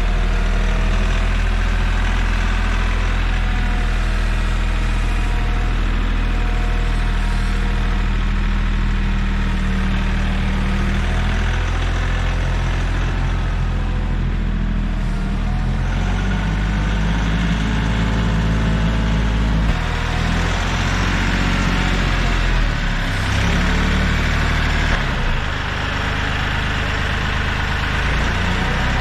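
Kioti CK3510 compact tractor's three-cylinder diesel engine running while the tractor manoeuvres. Its steady low note shifts in pitch several times as the engine speed changes.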